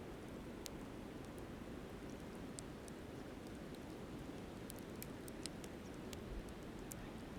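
Wood fire crackling, with scattered sharp pops that come more often in the second half, over the steady rushing of a flowing river.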